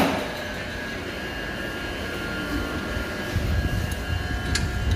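Compressed-air hiss with a steady whine, starting with a sharp click. It is the kind of sound an air-driven vacuum oil extractor makes while it pulls out old engine oil. A low rumble grows under it about three seconds in.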